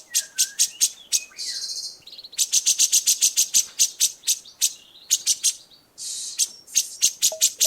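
Songbird singing a masteran, a recording of bird song used to train caged songbirds: a fast series of sharp, high chips, about five or six a second, broken by short warbling trills and a brief buzzy chatter.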